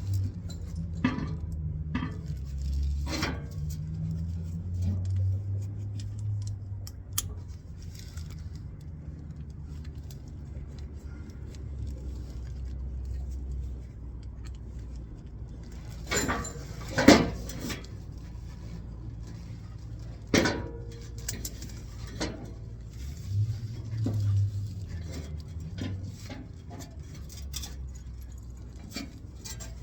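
Scattered metallic clinks and knocks, with a sharp clank a little past the middle as the loudest, over a low steady rumble.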